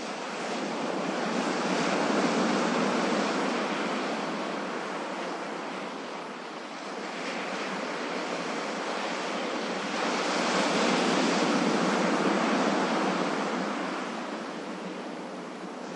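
Ocean waves breaking on a shore, a steady surf wash that swells and ebbs twice, with a peak a couple of seconds in and a longer one after about ten seconds.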